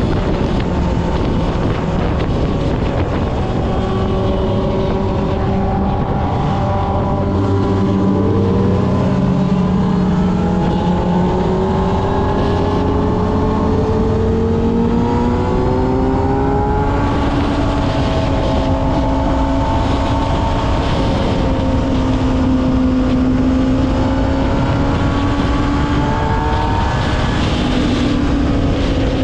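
Kawasaki ZX-6R's 636 cc inline-four engine running under way, its pitch climbing in several long rising sweeps in the middle and then holding a steadier note as the bike cruises.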